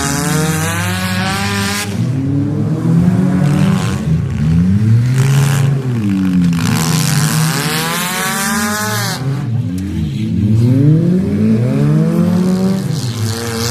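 Several car engines racing around a track, revving up and down over and over with overlapping pitches as they pass.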